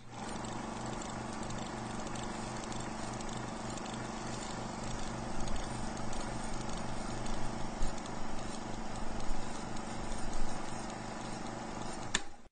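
A laboratory engine running with a steady hum and a regular low beat of several pulses a second. It grows louder and more uneven, with sharper knocks, through the second half.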